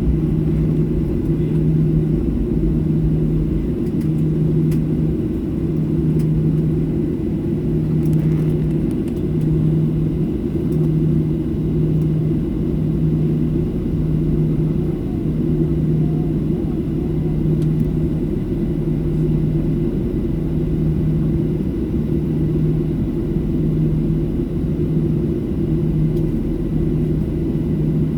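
Boeing 737 jet engines running at high power, heard from inside the passenger cabin as a steady, muffled low rumble. A low hum in it pulses about once a second.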